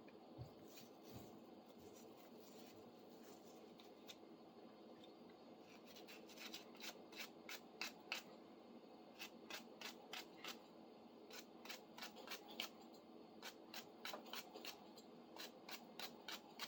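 Faint, quick scrubbing strokes of a hand wire brush on a forged-steel tool, cleaning off loosened rust. The strokes start about six seconds in and come a few per second, in short runs with brief pauses between them.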